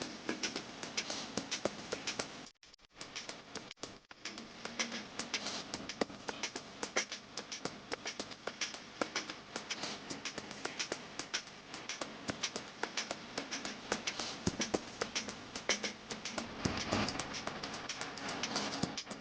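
Dense, irregular small clicks and taps, the sound of potting soil and a plant pot being handled while planting, with a brief drop-out about three seconds in.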